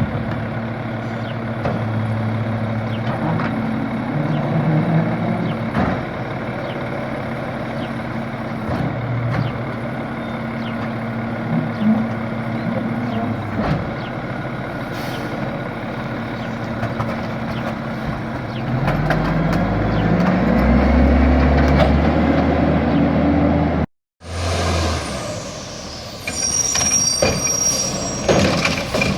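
Garbage truck's engine running, revving with a rising pitch for several seconds as it works, with air-brake hisses. The sound cuts off abruptly and is followed by another truck with a high whine.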